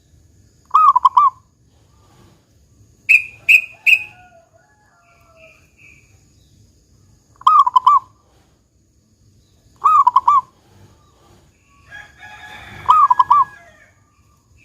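Zebra dove (perkutut) cooing: four short rolling three-part coos, spaced a few seconds apart. Three sharp higher notes come between the first and second coos, and other birds chirp around the last one.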